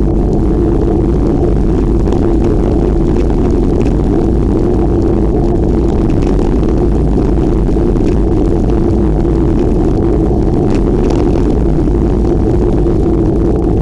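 Loud, steady rumble of wind buffeting the microphone while riding, with no breaks or distinct events.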